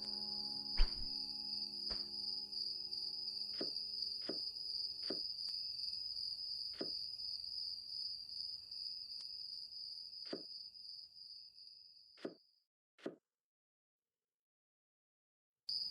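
A steady high cricket chirring, with quick downward-gliding cartoon sound effects every second or so. The last of the song's music fades in the first few seconds. About three seconds before the end everything cuts out to silence.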